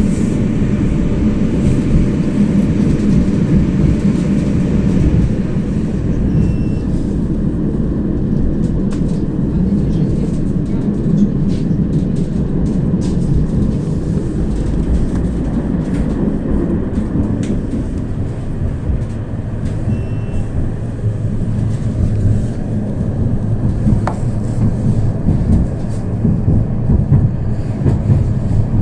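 Tram running, heard from inside the passenger car: a steady low rumble of wheels and running gear on the rails, with many light clicks and rattles.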